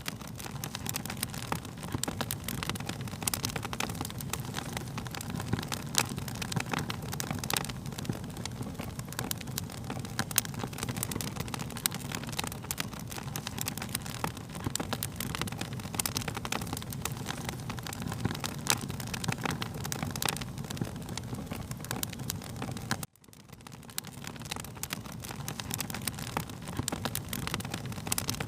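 Wood fire crackling, with many sharp pops and snaps over a low, steady rumble of burning. Late on the sound cuts out abruptly and fades back in.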